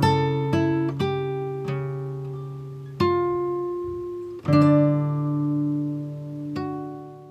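Background music: slow acoustic guitar with notes and chords plucked and left to ring, fading out near the end.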